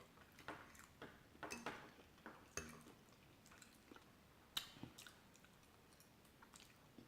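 Close-up wet chewing of soft chicken mole enchiladas: quiet mouth smacks and small clicks, irregular, with one sharper smack about halfway through.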